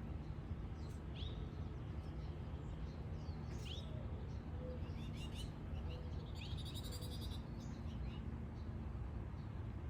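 Small garden birds chirping and calling in short, scattered notes, some sweeping down in pitch, with a rapid buzzy trill about seven seconds in, over a steady low background rumble.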